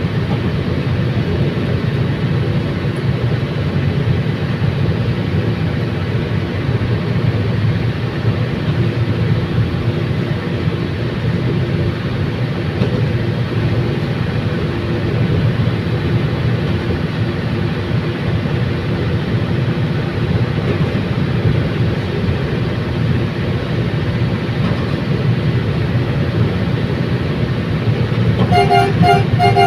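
Diesel commuter train running at speed, a steady low engine and rail rumble. Near the end comes a rapid series of short, horn-like beeps.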